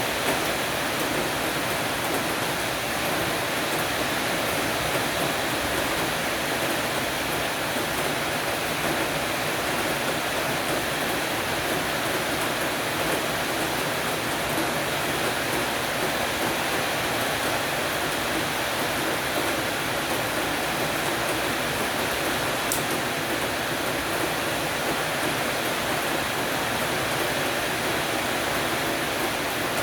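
Heavy rain shower falling steadily on a porch roof, an even, unbroken hiss of rain.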